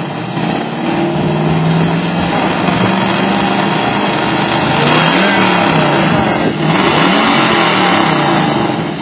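Chevrolet Camaro engine revved through its exhaust. The revs are held steady at first, then rise and fall several times in quick blips.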